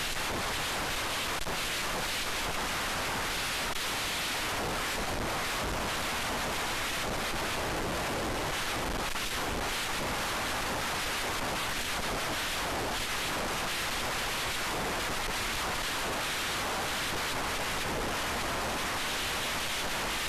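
Steady, even rushing hiss with no motor tone or other distinct sound in it.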